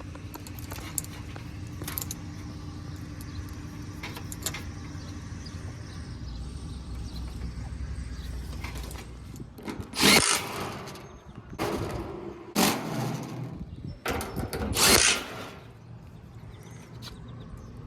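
A power drill runs in four short bursts in the second half, over a steady low machinery hum.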